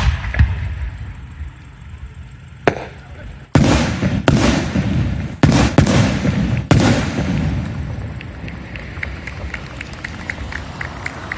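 Aerial fireworks shells bursting: a loud boom, another about two and a half seconds later, then five heavy booms in quick succession over the next three seconds, each rumbling away. The rumble fades into a run of light, quick ticks near the end.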